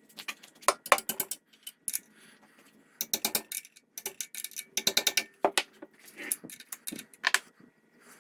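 Ratchet wrench clicking in several short bursts of rapid ticks while bolts holding the pump's engine to its frame are loosened.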